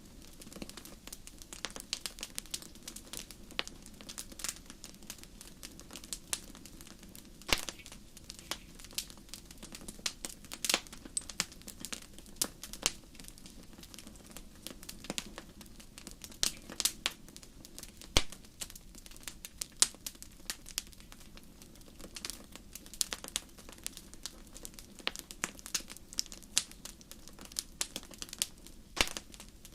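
Campfire crackling, with irregular sharp snaps and pops over a steady low background.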